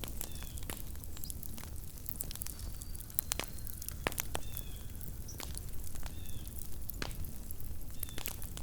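Small wood campfire crackling: irregular sharp pops and snaps over a steady low rumble. Faint short high chirps recur about every two seconds.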